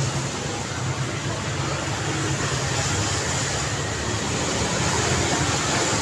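Steady daytime road traffic: vehicle engines running and tyres on the road, blending into a continuous hum with a low engine rumble underneath.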